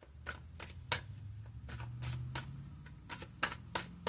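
Tarot cards being shuffled and handled: a string of short, crisp card snaps and taps at uneven spacing, coming thicker toward the end, over a low steady hum.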